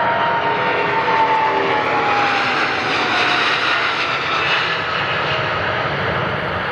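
Widebody jet airliner passing by, its engines a loud rush with a whine that slides down in pitch as it goes past, then slowly fading.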